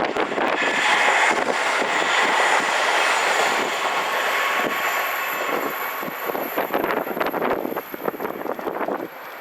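KiHa 40 diesel railcar running along the track. Its noise swells to a peak about a second in, then fades slowly, with a patter of wheel clicks over the rails.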